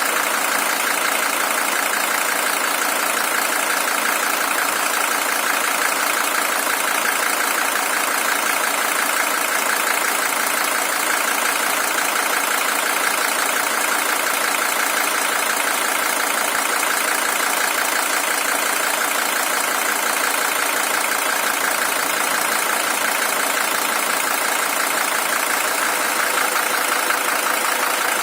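Mercedes-Benz OM617 five-cylinder diesel engine of a W123 300TD idling steadily, a high-mileage original engine with about 620,000 km on it.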